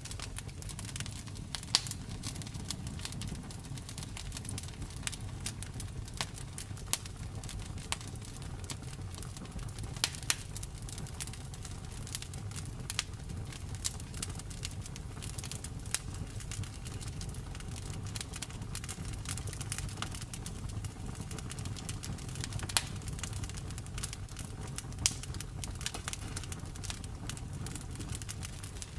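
Wood fire crackling in a fireplace: a steady low rumble of burning with frequent irregular snaps and pops, a few of them sharply louder.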